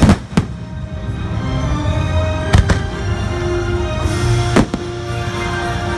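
Aerial firework shells bursting with sharp bangs over the show's sustained orchestral soundtrack. There are two bangs at the start, two more about two and a half seconds in, and a single one about four and a half seconds in.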